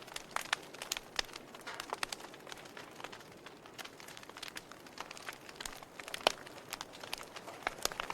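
Wood fire burning in a fireplace: irregular sharp crackles and pops from the burning logs over a soft steady hiss, with one louder pop about six seconds in.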